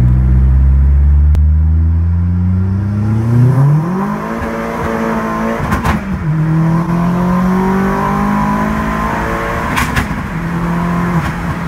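Turbocharged Opel Astra's 2.0 four-cylinder with a K06 turbo accelerating hard, heard from inside the car. The engine pitch climbs, breaks briefly at gear changes about six and ten seconds in, and climbs again.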